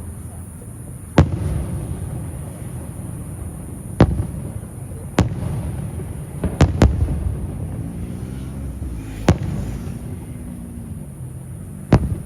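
Aerial fireworks shells bursting: seven sharp bangs at uneven intervals, two in quick succession about halfway through. Each bang is followed by a low, rolling echo.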